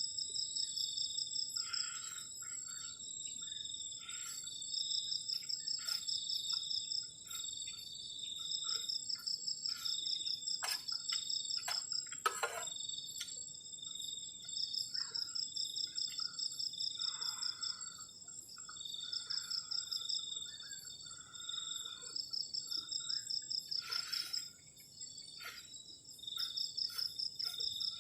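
Crickets and other insects chirping in chorus: a steady high continuous trill, with a second pulsed trill that comes in bursts of a second or two with short gaps. Scattered lower chirps are mixed in, and a single sharp click comes about halfway.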